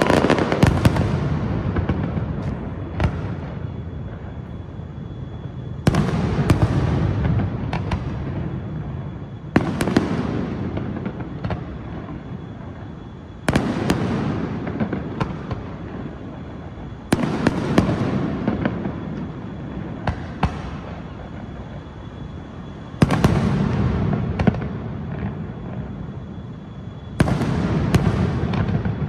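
Aerial firework shells bursting in volleys every few seconds. Each volley starts with a sudden boom that rumbles and dies away over a few seconds, and scattered single pops fall between the volleys.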